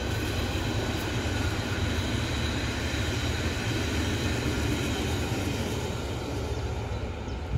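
Berlin S-Bahn electric train passing close by: a steady low rumble of wheels on the rails, with several steady high whining tones over it.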